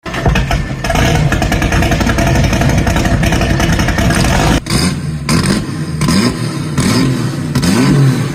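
Chevrolet Opala Comodoro engine rumbling, loud and steady at first. From about halfway it is blipped through several quick revs, each rising and falling in pitch.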